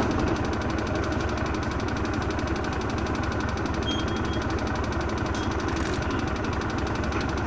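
Mitsubishi Fuso Aero Star city bus diesel engine idling steadily, with an even, rapid knocking rhythm, heard from inside the bus.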